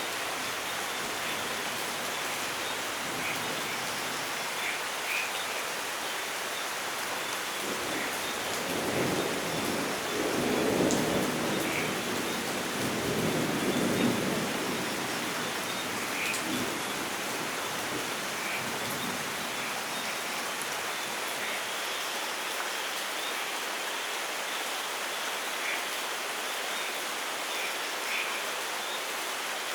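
Steady heavy rain hissing, with scattered drop ticks and a roll of thunder rumbling from about eight to fifteen seconds in, swelling twice before it fades.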